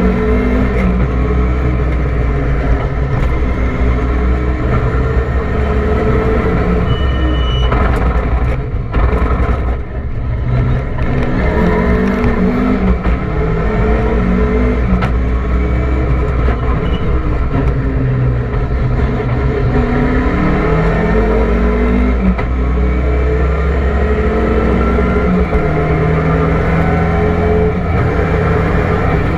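Rally car engine heard from inside the cockpit, driven hard: the revs climb and drop again and again as it accelerates and changes gear, with a short lift off the throttle about nine to ten seconds in.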